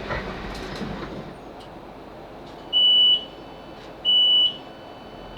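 Class 458 train's door warning beeper sounding as the train stands at the platform: single high beeps about half a second long, repeating every second and a half or so, over the fading rumble of the train coming to a stop.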